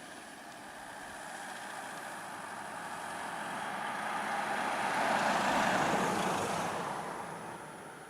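A road vehicle passing by: engine and tyre noise grows steadily louder, peaks about five to six seconds in, then fades away.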